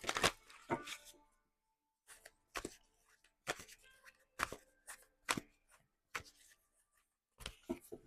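Tarot cards being shuffled by hand: short, faint taps and slaps of the deck, about one a second.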